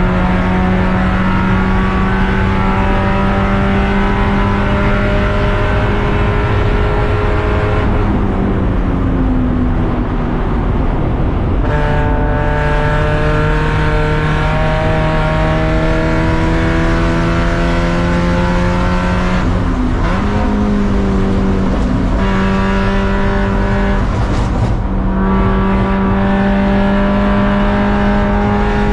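Race car engine at high revs, its pitch climbing slowly under acceleration. The revs drop and build again about eight seconds in, near twenty seconds and again about twenty-five seconds in, as the car lifts and changes gear.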